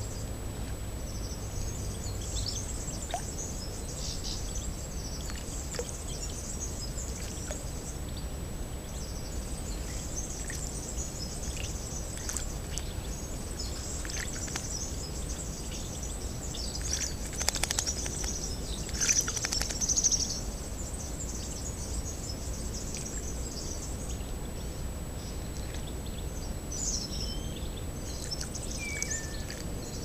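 Small birds chirping and twittering, high-pitched and almost continuous, over a steady low background noise. About 17 to 20 seconds in comes a louder flurry of sharp splashes and chirps as a bird bathes in shallow puddle water.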